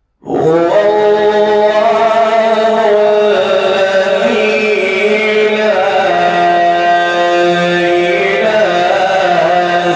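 A man's voice in slow, melodic Quran recitation, holding long drawn-out notes whose pitch glides and ornaments slowly. It starts suddenly out of silence a moment in.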